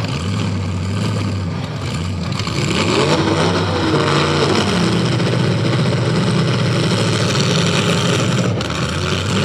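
Several full-size demolition derby cars' engines running and revving together, their pitches rising and falling as the cars accelerate and back off, building up about three seconds in.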